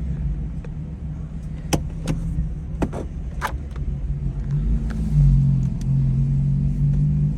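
BMW M car's twin-turbo straight-six running at low revs, its note rising and getting louder about five seconds in as it is revved or pulls away. A few sharp clicks sound over it in the second and third seconds.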